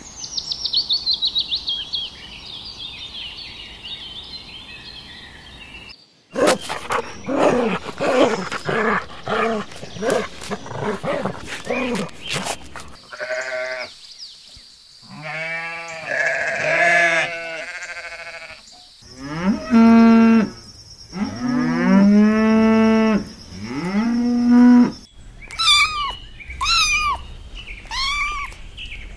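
A run of different animal calls, one after another: high twittering at first, then a dense stretch of rapid short calls, then sheep bleating. After the bleating come several long, low cattle moos, and near the end a kitten mewing repeatedly.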